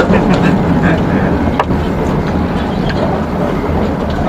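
Miniature tourist train running slowly along its track, a steady rumble with a few faint clicks from the wheels and carriages.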